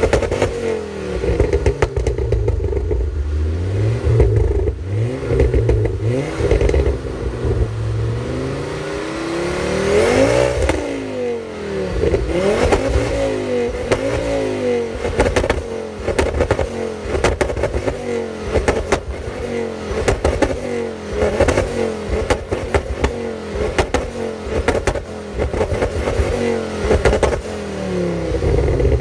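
Mercedes-AMG A45's turbocharged four-cylinder engine being revved repeatedly while parked, short blips rising and falling every second or two with one longer, higher rev about ten seconds in. Exhaust pops and crackles on each lift-off.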